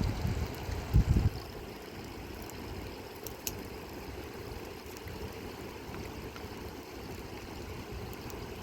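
River water flowing in a steady rush, with a few low thumps in the first second or so.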